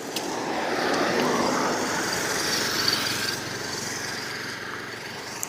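A motor vehicle running; it swells about a second in, then slowly fades.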